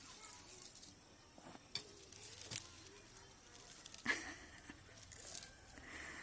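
Hands digging in soil and handling potatoes: scattered soft rustles and small knocks, with one sharper knock about four seconds in.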